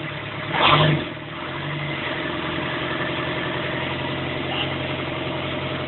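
Land Rover 200Tdi 2.5-litre four-cylinder turbodiesel idling steadily, with one brief louder burst a little under a second in.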